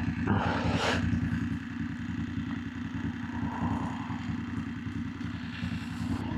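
BMW F900GS parallel-twin motorcycle engine running steadily at low road speed. A brief rush of noise comes about half a second in.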